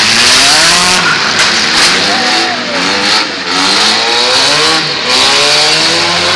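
Several demolition derby cars' engines revving hard, their pitch rising and falling over and over as the cars accelerate and manoeuvre.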